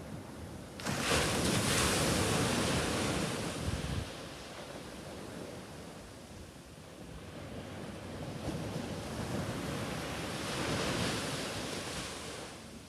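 Ocean waves washing onto a shore: a steady rush that swells sharply about a second in, eases off after about four seconds, and builds into a second surge near the end.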